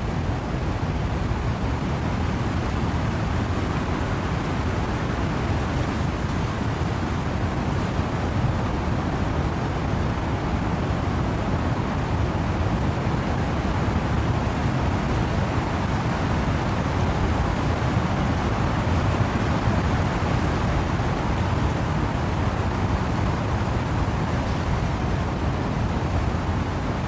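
Steady wind and rain in trees: a dense, even rush of noise, heaviest in the low end, with no single drops or gusts standing out.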